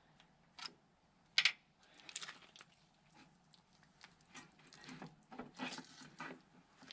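Hydraulic hose being pulled and worked free from a backhoe stabilizer by hand: scattered knocks and clicks, the sharpest about a second and a half in, then a spell of rubbing and scraping.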